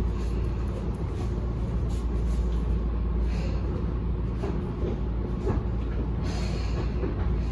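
Tobu 10030-series train standing in a passing siding, waiting for another train to pass: a steady low rumble with short, irregular hissing and clattering noises every second or so.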